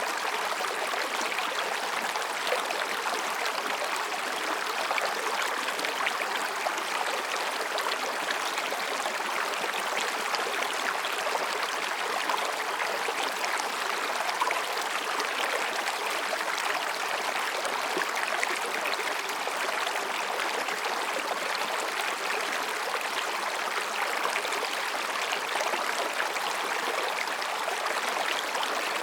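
Mountain stream flowing over and between rocks: a steady babbling and splashing of water that stays even throughout.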